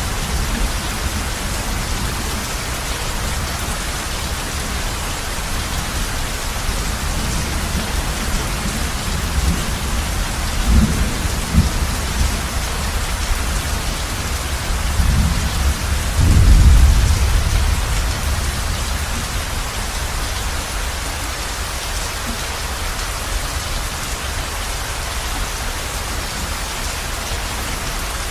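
Heavy rain falling steadily on a roof, a dense even hiss. A couple of short low thunder rumbles come a little before the middle, then a louder rolling peal a little past halfway that dies away over a few seconds.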